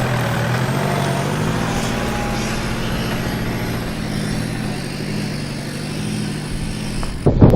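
An off-road vehicle's engine running steadily at low revs. Just before the end it cuts suddenly to loud wind buffeting on the microphone.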